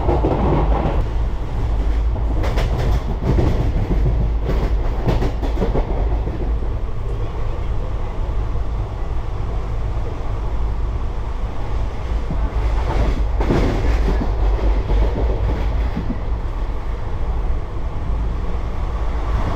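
Inside an ICF sleeper coach of an Indian Railways express running at about 80 km/h: a steady low rumble of wheels on the track. Two clusters of sharp knocks from the wheels come through, a few seconds in and again about two-thirds of the way through.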